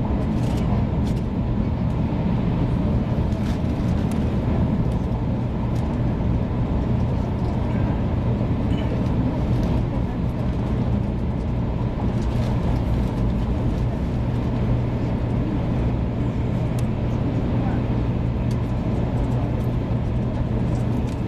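Steady running noise of a 500 series Shinkansen heard inside the passenger cabin: a continuous even rumble with a strong low hum and a few faint ticks.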